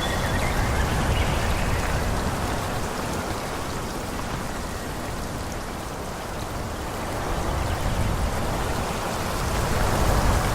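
Wind rushing through forest trees, a steady noise with a deep rumble that swells slightly about a second in and again near the end.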